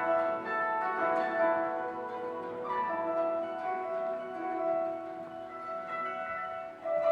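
Koto duet: plucked zither strings ringing in sustained notes, with a sweeping glissando about three seconds in. The playing turns suddenly louder and denser near the end.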